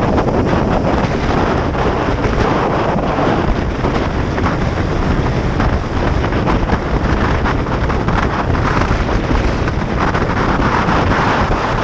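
Wind rushing hard over the action camera's microphone on a Kawasaki Ninja 500 motorcycle at speed, with the bike's engine running underneath. Steady and loud throughout, without any clear engine note.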